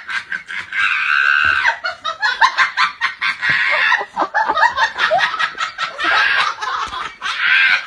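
High-pitched, rapid cackling laughter that goes on almost without a break.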